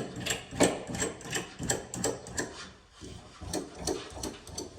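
Metal lock nuts being run onto threaded all-thread rod: a quick series of rasping, clicking strokes, about three a second, with a short pause near three seconds in.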